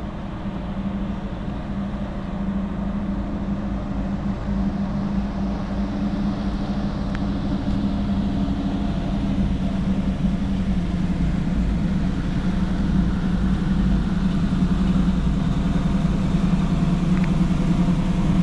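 Tow truck's engine running steadily, slowly growing louder.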